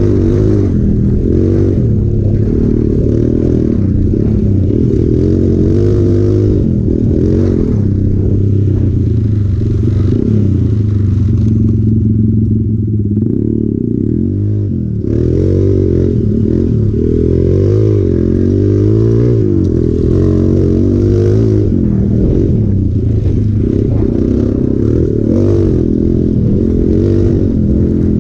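Hero Impulse's single-cylinder four-stroke engine revving up and down under load as the motorcycle is ridden off-road, easing off briefly about twelve seconds in.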